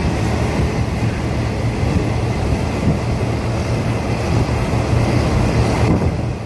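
Passenger train running along the track, heard from aboard: a steady low drone with an even rumbling noise.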